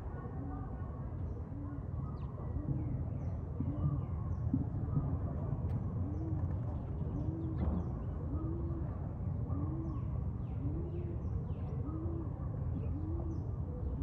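Bird calls: a low, arched coo repeated about once a second, with short high chirps from smaller birds, over a steady low rumble.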